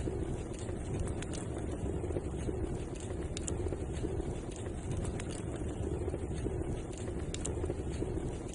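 Wood fire burning with a steady low rush, broken every second or two by sharp crackles and pops.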